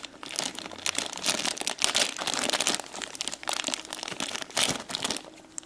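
Packaging crinkling and crackling irregularly as it is opened by hand to get at the toy figures inside.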